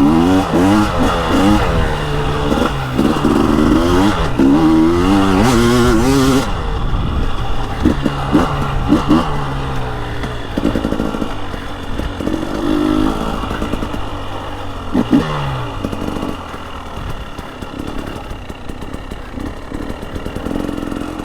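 KTM 300 XCW Erzberg's fuel-injected (TPI) 300 cc two-stroke engine being ridden, its pitch rising and falling with the throttle for the first several seconds. It then runs quieter, with a few short throttle blips and some clatter from the bike on the trail.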